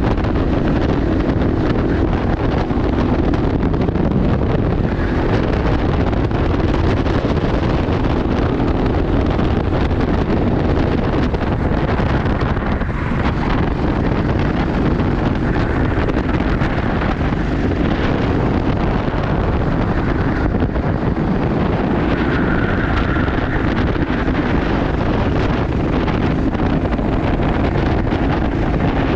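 Racing kart's engine running at speed, heard on board with heavy wind noise on the microphone; a steady, unbroken din.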